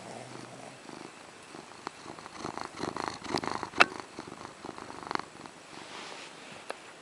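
Chihuahua growling in low rasping rumbles while guarding her bone, loudest in the middle with a sharp click partway through.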